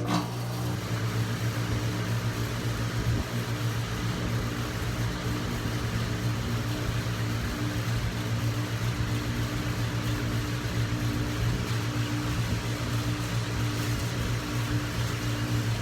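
Outdoor HVAC condensing unit kicking on abruptly at the start, then running with a steady compressor hum under the rush of its condenser fan.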